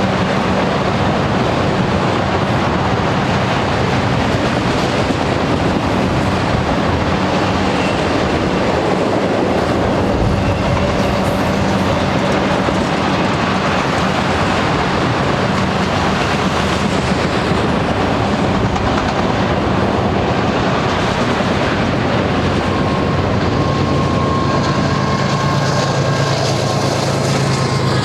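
Union Pacific freight train rolling past, its cars giving a steady rumble and wheel clatter on the rails. A low steady hum joins near the end.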